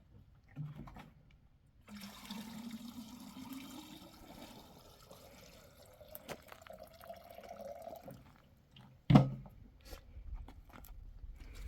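Water being poured into a container for about six seconds, its pitch rising as the container fills, then one loud knock about nine seconds in.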